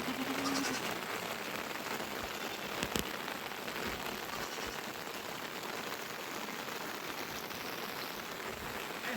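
Steady rain falling and pattering on surfaces, an even hiss throughout. A short call sounds right at the start, and a single sharp knock comes about three seconds in.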